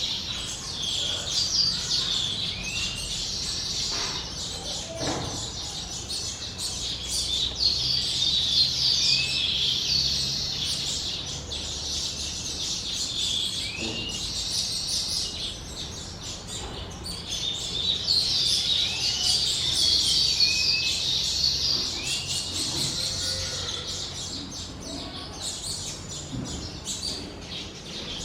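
Baya weavers chattering at their nesting colony: a dense chorus of high chirps and short rising calls that thins out about halfway through, then swells again.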